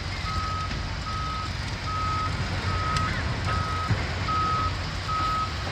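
Back-up alarm on heavy demolition equipment: seven evenly spaced beeps at one steady pitch, a little under one a second, over the low rumble of diesel machinery.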